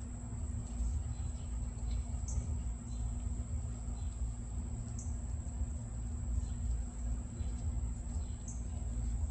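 Northern cardinal giving a few sharp, high chip notes, spaced a few seconds apart, over a constant low rumble and a steady high-pitched whine.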